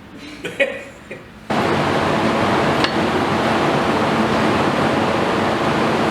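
A brief soft voice sound, then about a second and a half in a loud, steady rushing noise cuts in abruptly and holds even, with a single light metallic tick partway through.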